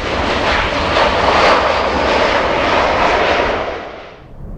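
Jet airliner passing close overhead on approach or departure: a loud, even engine roar that swells and then drops away quickly about four seconds in.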